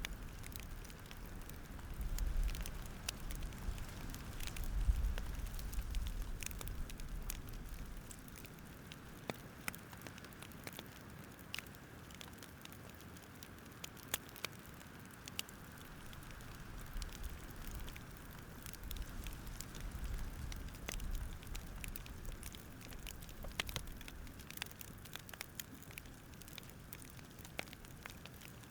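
Campfire crackling, with irregular sharp pops and snaps scattered throughout over a soft hiss. A low rumble runs under it for the first several seconds and returns in the second half.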